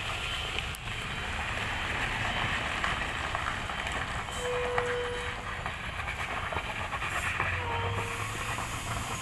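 Diesel engine of a Hino container truck running steadily, a continuous low rumble with a rough clatter over it.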